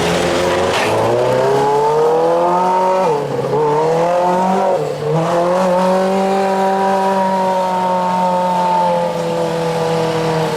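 Modified lawn tractor's engine revving hard under load, climbing in pitch about a second in. The pitch drops sharply twice, around three and five seconds in, then holds high and sags slowly.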